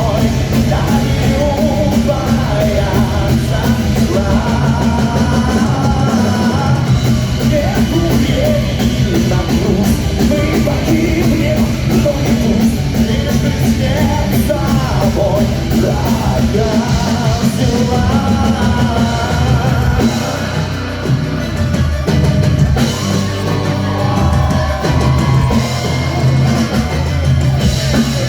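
Heavy metal band playing live, with a drum kit driving a steady beat and singing over it.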